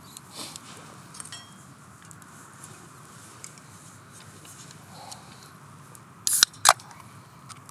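Quiet handling with a few small clicks, then two sharp metallic clinks of cooking utensils about six and a half seconds in, the second ringing briefly.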